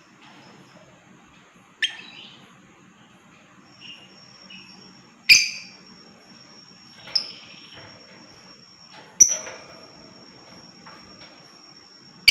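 Lovebird giving short, sharp, shrill calls, five in all, spaced two to four seconds apart, over a thin steady high-pitched tone.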